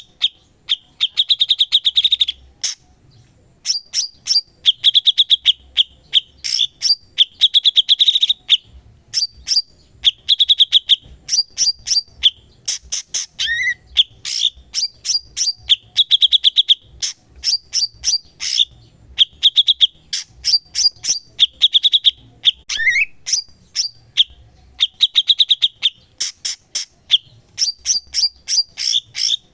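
Cucak cungkok bulbul singing non-stop: bursts of rapid sharp chips and short buzzy trills, high-pitched and repeated with brief pauses, with a short rising note about halfway and another shortly after.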